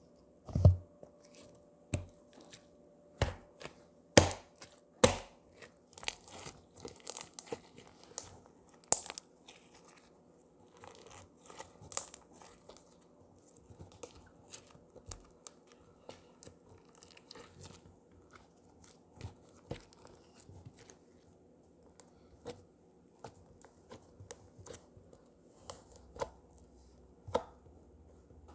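Slime being squished and stretched by hand, making irregular sticky pops and clicks, with a few louder pops in the first five seconds.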